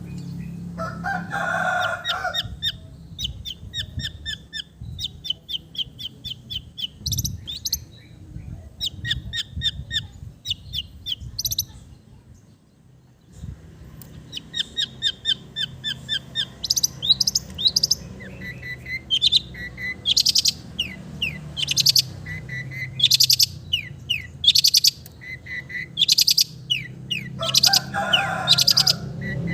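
Long-tailed shrike (cendet) singing a varied, chattering song: quick runs of short high chirps and repeated sharp notes, with harsh grating calls about a second in and again near the end. A short pause falls in the middle.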